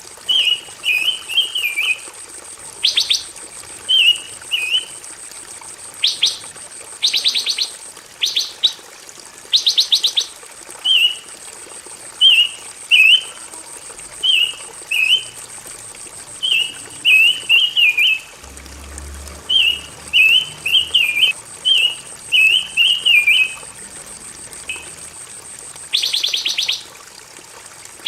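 Pancawarna songbird singing in short bursts with brief pauses between them. Fast, buzzy trills alternate with quick twittering, warbled phrases, over a thin steady high tone.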